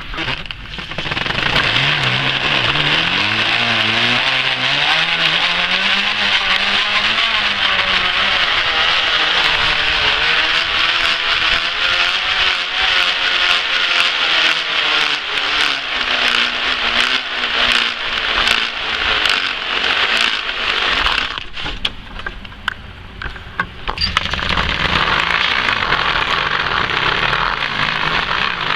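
Flattened plastic water bottles wedged against knobby bicycle tyres, flapping on the tread as the bike is ridden, giving a loud buzzing rattle meant to sound like a dirt bike. It rises and falls in pitch, fades about three quarters of the way through, then comes back at full strength.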